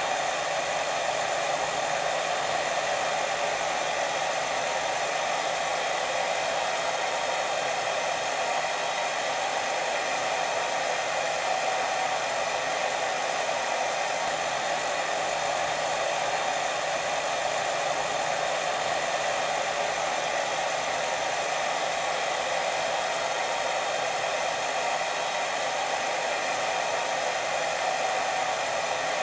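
Steady, unbroken white noise played as a sleep sound, its hiss strongest in the lower middle and without pauses or swells.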